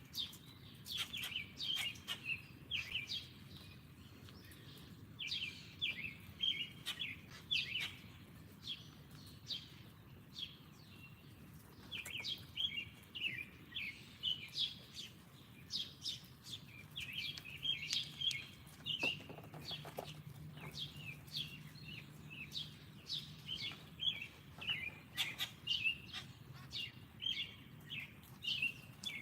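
Small songbirds at a backyard feeder chirping and twittering: many short, high chirps in quick runs, with a couple of quieter gaps.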